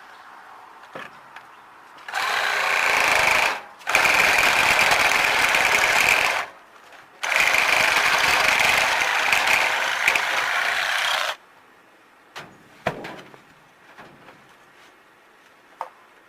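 A handheld power tool runs hard in three bursts, about a second and a half, two and a half and four seconds long, with short pauses between, cutting or drilling on an HVAC job. A few short clicks and knocks follow.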